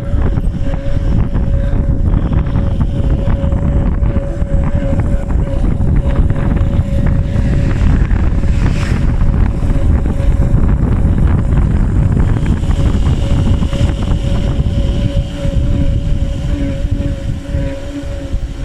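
Indian Scout 1133 motorcycle's liquid-cooled V-twin engine running, a dense low rumble with wind buffeting the microphone. A steady thin whine sits over it throughout, with a lower second whine joining near the end: the strange noise the owner is showing.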